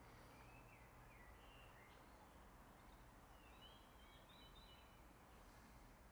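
Near silence with faint birdsong: a string of short chirps and warbled notes over a low steady background hum.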